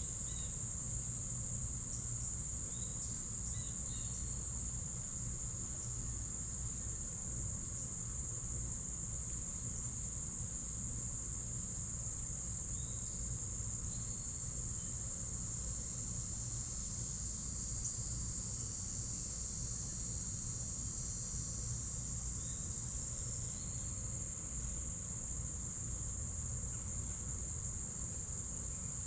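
Crickets trilling in a steady, unbroken high-pitched chorus, with another insect's buzzier trill swelling in about halfway through and fading a few seconds later. Faint, short chirps near the start.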